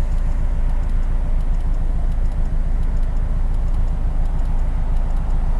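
Flat-four boxer engine with a louder modified exhaust running steadily as the car drives, heard from inside the cabin as a low, even drone.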